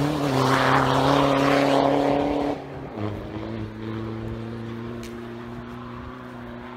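Rally car engine at high revs, pulling away at speed, with a hiss of snow and grit thrown up by the tyres. About two and a half seconds in, the note steps down and grows fainter, then holds a steady pitch as the car draws off.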